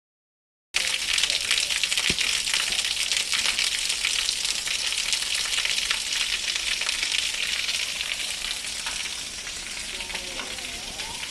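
Cicadas singing in a dense, steady chorus, a shrill sizzling hiss that starts abruptly about a second in and eases slightly near the end.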